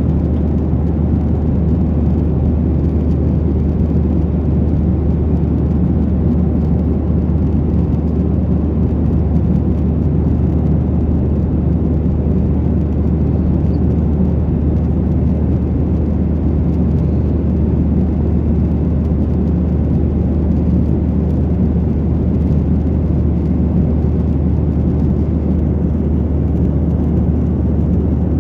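Steady drone inside the cabin of a Boeing 737-900ER airliner in flight: the even rush of airflow and the low hum of its CFM56 turbofan engines, unchanging throughout.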